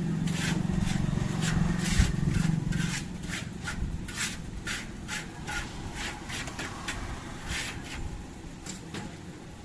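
Repeated hand scraping strokes, about two to three a second and slightly uneven, over a low hum that fades out about three seconds in.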